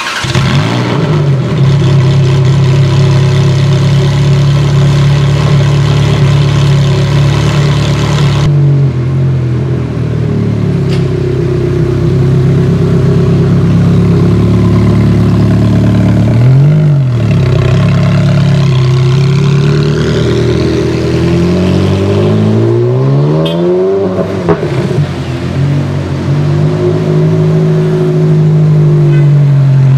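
Ferrari 360 Challenge Stradale's 3.6-litre flat-plane V8 catches suddenly and runs at a steady fast idle, typical of a fresh start, dropping a little about eight seconds in. In the second half it is blipped several times, the revs rising and falling quickly, before it settles to idle again.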